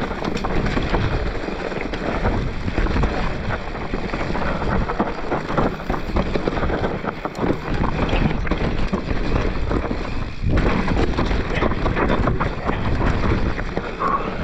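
Mountain bike descending a rough downhill trail: wind buffeting the microphone over tyre noise on dirt, with constant clattering and knocks from the bike over roots and ruts.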